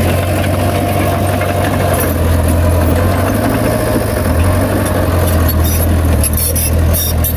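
Heavy diesel engine of earthmoving machinery running steadily with a deep, even hum. Scattered sharp clicks come in near the end.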